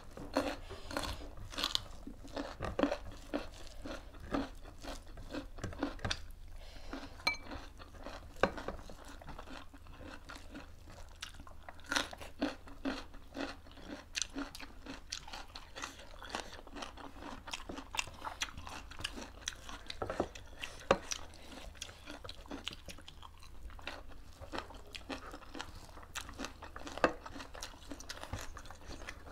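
Close-up eating sounds: chewing and crunching food, including raw green vegetables bitten off by hand. Many short, sharp crunches and mouth smacks come at irregular intervals.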